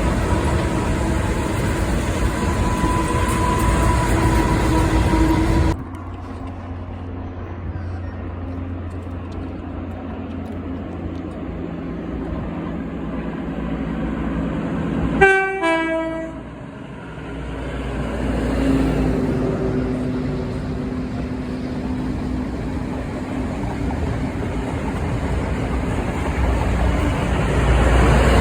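Goods train running on the line, with a steady deep engine rumble. A short train horn toot, the loudest sound, comes about halfway through. The sound drops abruptly about six seconds in and builds again near the end.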